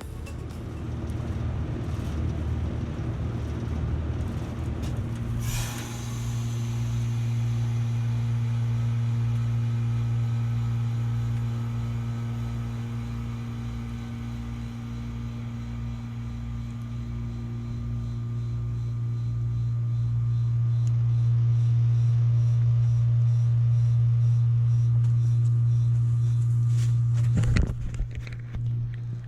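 Vintage 1981 BDP 3-ton heat pump outdoor unit running, its compressor giving a loud steady hum. A sudden sharp noise comes about five seconds in, and another one near the end.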